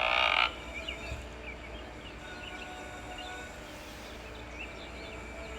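Birds chirping faintly here and there over a steady low hum, after a short loud burst right at the start.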